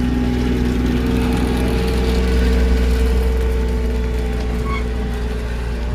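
Diesel engine of a road roller running steadily while it compacts fresh asphalt: a continuous deep engine rumble.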